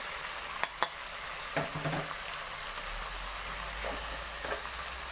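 Pork pieces and potato cubes sizzling steadily in a hot pot as ground turmeric, chili and cumin are sprinkled in, with a couple of sharp knocks about a second in.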